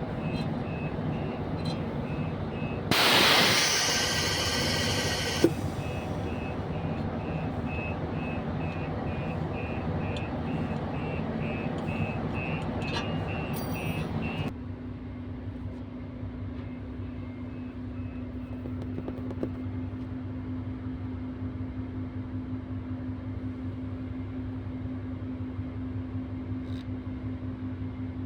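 Hyundai Aero City bus diesel engine running at raised revs with an electronic beep repeating about twice a second. About three seconds in, a loud hiss of air lasts a couple of seconds and ends in a sharp click. About halfway through, the revs drop and the beeping stops, and the engine settles to a steady idle.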